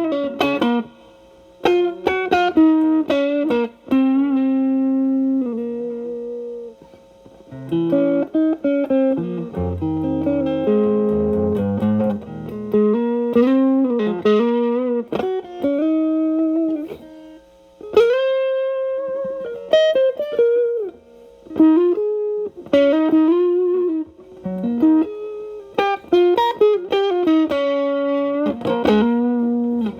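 Telecaster with single-coil alnico pickups playing improvised blues licks through an MXR Distortion+ stacked with a Boss SD-1 into a Marshall Valvestate amp's clean channel. The guitar's volume is rolled back so the stacked drive cleans up. Picked single notes and double-stops, with bent and held notes ringing out between phrases.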